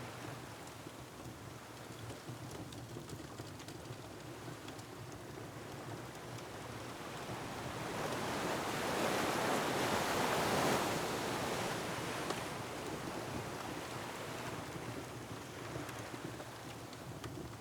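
Ocean waves against a rocky shore, a steady wash in which one wave swells up to a surge about halfway through and falls away again. Faint crackles of a wood fire are scattered through it.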